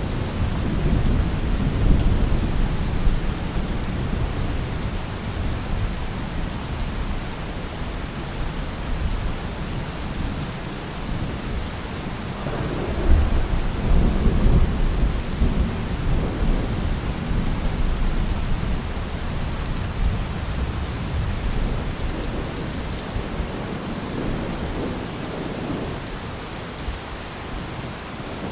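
Steady heavy rain with thunder rumbling low, a stronger roll of thunder swelling up a little under halfway through and dying away.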